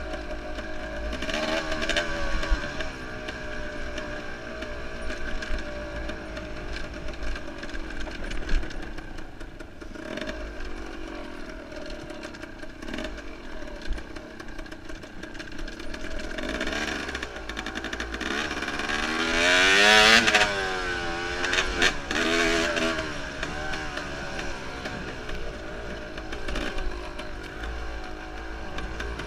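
Enduro dirt bike engine being ridden hard, its revs rising and falling constantly, with a few sharp knocks. The loudest rev climbs to a peak about twenty seconds in and then drops away.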